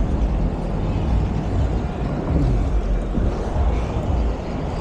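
Steady low rumble of street traffic and road noise heard from a moving bike, with wind on the microphone.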